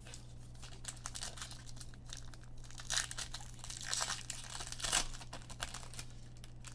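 Foil trading-card pack wrappers being torn open and crinkled by hand, with louder crackling bursts about three, four and five seconds in.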